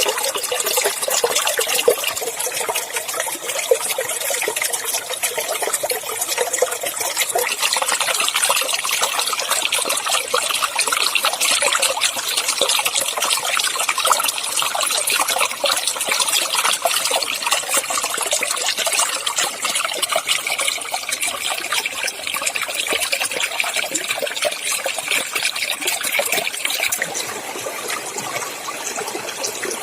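Clear water running and splashing over rocks in a small stream: a steady, bright trickling with no break.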